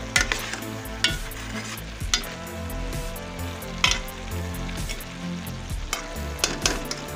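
Spatula stirring chopped bottle gourd through frying masala in a pan, with a steady sizzle and sharp scrapes against the pan several times. The gourd is sizzling wet because it is cooking in the water it has released, which has not yet dried off.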